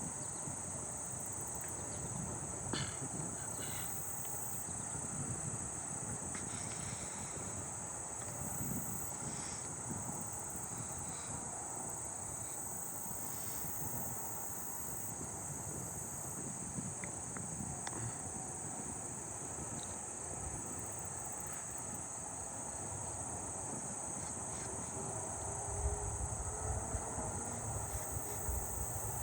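Agile meadow katydids singing: a steady high-pitched insect buzz, with a low rumble near the end.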